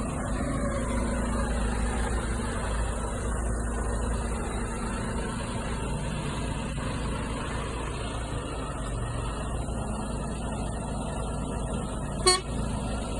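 Heavy Mercedes-Benz truck diesel engine running steadily. A brief sharp sound cuts in near the end.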